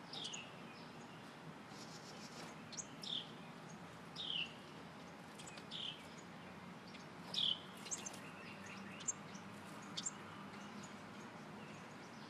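Small birds chirping: a series of short calls that fall in pitch, about one every one to one and a half seconds, with fainter, higher chips in between.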